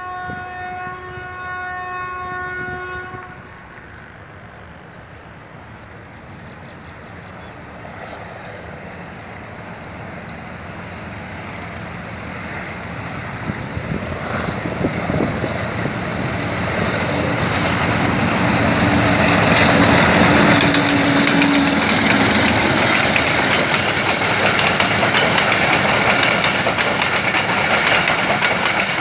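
A locomotive horn sounds one long steady blast for about three seconds. Then an HBU-20 diesel-electric locomotive with an ALCo 251-C4 prime mover comes up, its engine and rail noise growing louder to a peak about twenty seconds in, and the passenger coaches follow with a steady clickety-clack of wheels over the rails.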